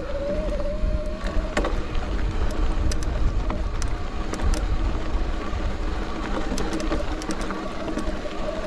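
Mountain bike riding over a rocky trail. Low rumble and rolling noise run under scattered clicks and rattles from the bike. A wavering hum is strongest for the first second and a half and again near the end.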